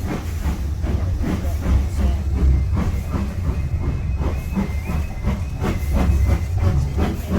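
A steam-hauled heritage train running, heard from a passenger carriage: a steady low rumble with a rapid, irregular clatter of knocks. A faint thin high squeal joins it for a couple of seconds in the middle.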